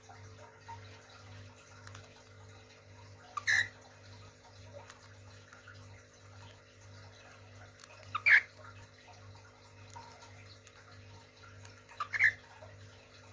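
A small cage bird gives a short loud call three times, about four seconds apart, each a quick lead-in note then a stronger call, over faint chirping from other birds and a steady low hum.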